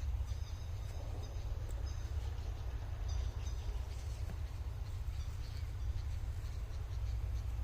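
Small birds chirping, short high calls a few times over a steady low rumble.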